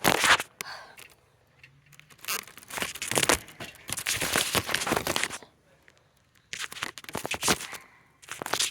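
Handling noise on the phone's microphone: scraping and rustling in irregular bursts with short quiet gaps as the phone is fiddled with and repositioned.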